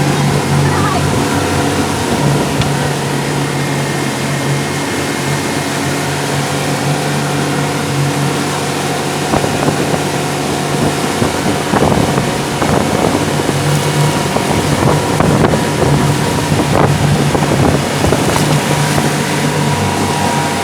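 Motorboat engine running steadily at speed, with an even rush of wind and water over it and a few brief splashes or knocks in the second half.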